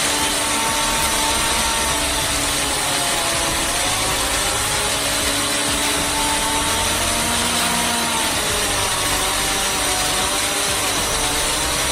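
Loud, steady machinery noise with a faint whine that slowly wavers up and down in pitch.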